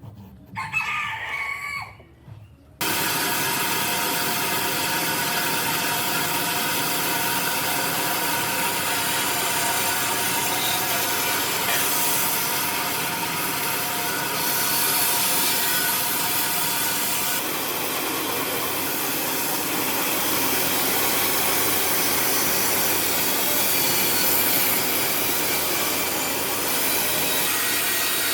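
Electric power tool working wood, running steadily at full speed with a continuous whine and rasping noise; it starts abruptly about three seconds in.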